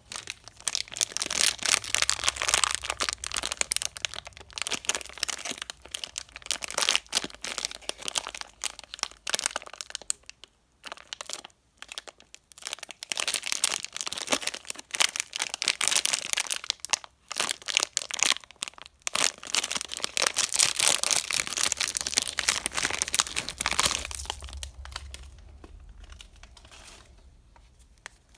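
Candy wrappers being crinkled and torn open by hand: a long run of dense crackling with a short pause about ten seconds in, fading out near the end.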